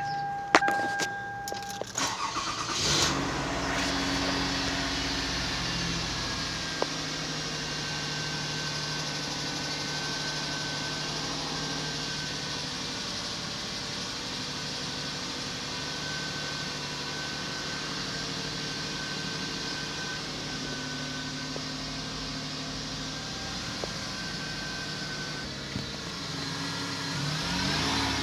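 Car's warning tone sounds for about two seconds. The engine then cranks and catches, and settles into a steady idle on a cold start after the vehicle has sat unused for three days.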